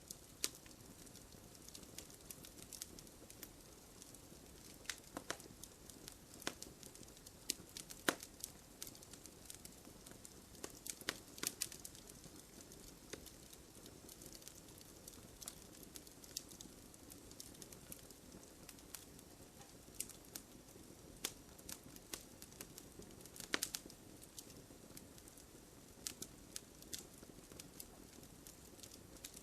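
Wood fire burning with a soft steady rustle and frequent sharp, irregular crackles and pops from the burning wood.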